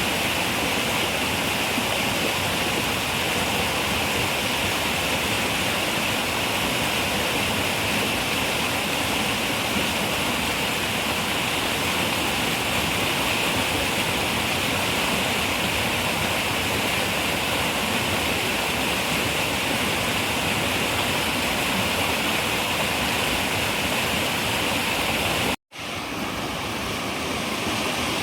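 Running river water, a steady even rush. About 25 seconds in it cuts out for a split second and fades back in with a slightly different tone: a splice in the recording.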